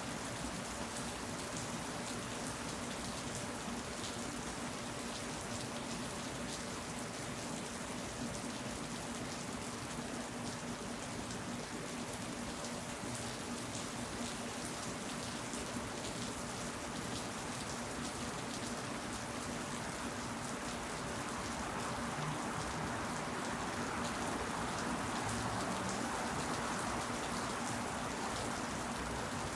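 Steady rain falling, a dense, even hiss of many fine drops hitting surfaces, growing a little louder near the end.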